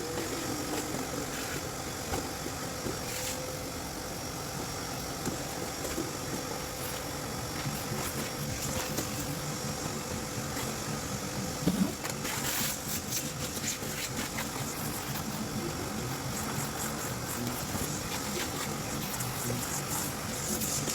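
A motor running steadily with a constant hum, starting suddenly.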